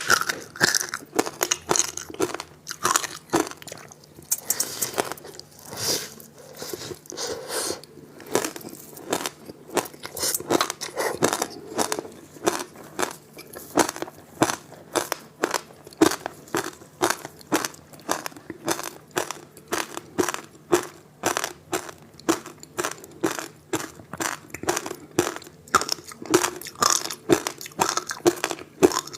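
Close-up crunching and chewing of frozen ice: teeth biting and cracking through hard ice in a dense run of sharp crunches, about two or three a second.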